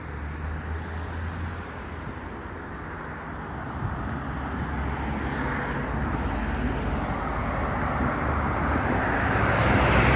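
Road traffic noise from passing vehicles, a steady rush with a low engine hum, swelling steadily louder toward the end.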